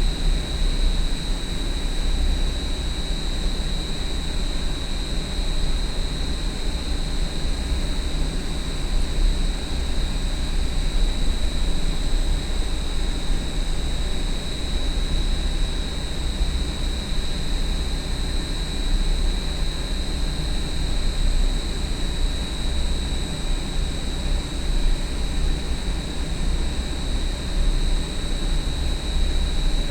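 Large industrial exhaust fan running steadily: a deep rumble under a constant high whine.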